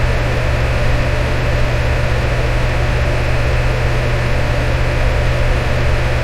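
Electric fan running steadily: an even, unbroken rush of air noise over a strong low hum.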